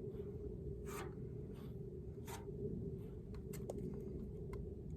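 Three short scraping strokes about a second apart, then a few light clicks, over a steady low hum.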